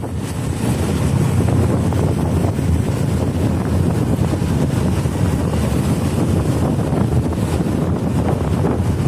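Loud, steady rushing noise, such as wind buffeting a microphone, growing over the first second and then holding steady.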